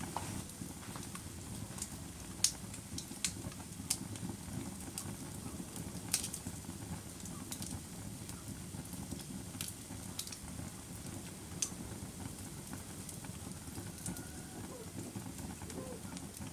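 Wood fire burning with a steady low rumble and hiss, broken by a few sharp crackles and pops every second or two.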